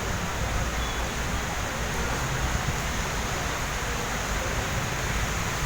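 Steady hiss of heavy rain with a low rumble underneath.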